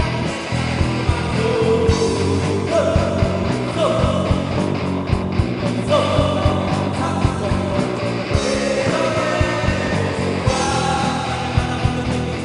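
Live rock band playing a song with a lead singer, electric guitar, bass, drums and keyboard, the drums keeping a steady beat.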